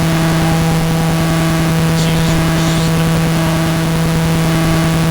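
Loud steady electrical buzz at a fixed pitch over a hiss of static, cutting off suddenly near the end.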